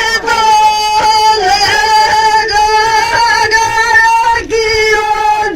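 Women singing a Rasiya, a Braj and Rajasthani folk song, in a high voice that holds long, drawn-out notes.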